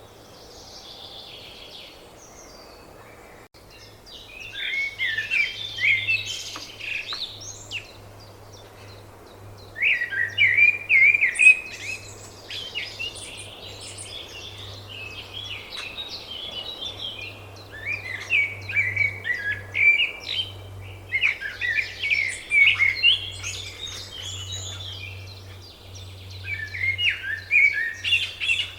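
Songbirds chirping and twittering in quick, lively bouts that come every few seconds with short pauses between them.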